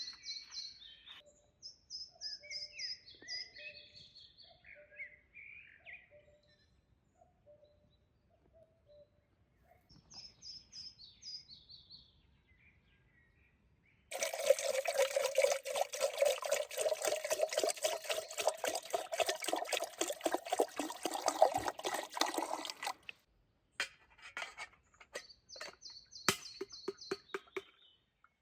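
Birds chirping in short phrases. About halfway through, liquid pours steadily into a container for about nine seconds, its pitch rising a little as it fills, then stops; the birds and a few light clicks follow.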